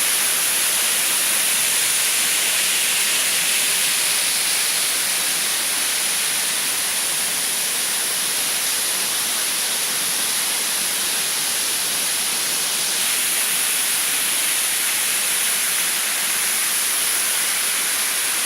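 Waterfall's water falling and rushing, a steady hiss with no break.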